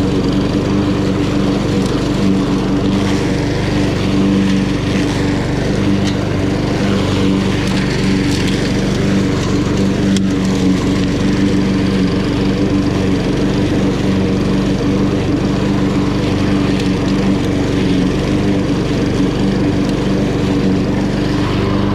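Honda GCV170 single-cylinder engine of a walk-behind lawn mower running steadily while cutting grass.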